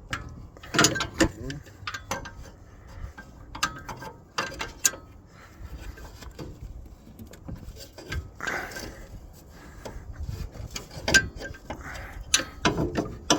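Steel hand wrenches working an 11/16 bolt: irregular metallic clicks, clinks and clanks of the tools against the bolt and the surrounding metal as it is loosened, with louder strikes about a second in and again near the end.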